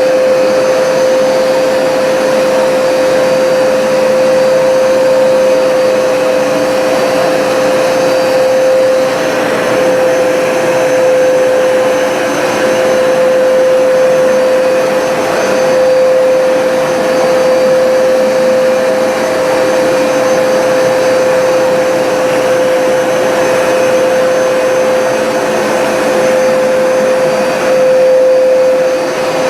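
Hoover SmartWash carpet cleaner running steadily, its motor and suction giving a constant hum with one strong steady pitch.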